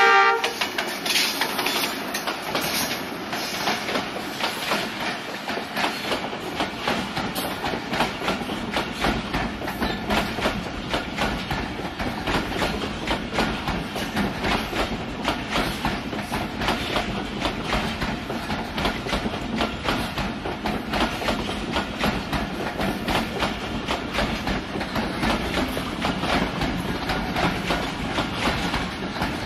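Passenger coaches of a train rolling slowly past, their wheels clicking over the rail joints in a steady clickety-clack. The last moment of the locomotive's horn ends just as it begins.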